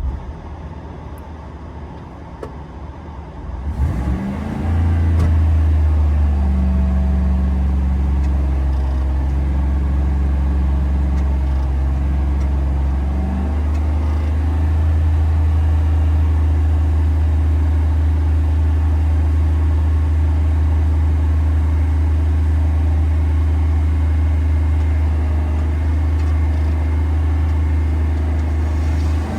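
A small pickup truck's engine catches about four seconds in after a retry, rising in pitch as it comes up to speed, then runs steadily with its note settling to a new steady speed partway through.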